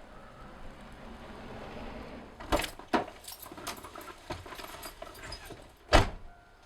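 Rustling handling noise, then a run of sharp clicks and knocks, with one loudest thump about six seconds in.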